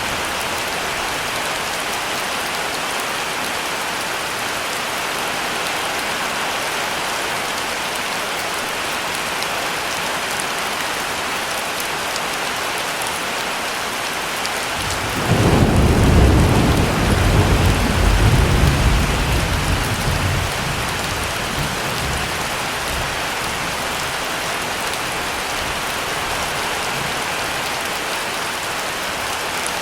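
Steady heavy rain falling, with a clap of thunder about halfway through that rumbles for several seconds before dying away under the rain.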